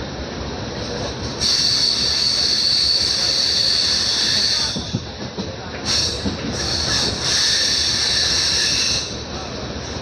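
Passenger train wheels squealing against the rails in high, steady bands over the rumble of the coach running on the track, heard from inside the coach; the squeal starts about a second and a half in, drops out for about a second in the middle, and returns until shortly before the end.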